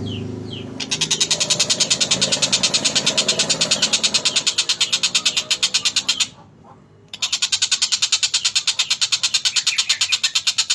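Oriental dollarbird (tengkek buto) giving a rapid, harsh chattering series of about six notes a second, breaking off briefly near the start and again for about a second midway.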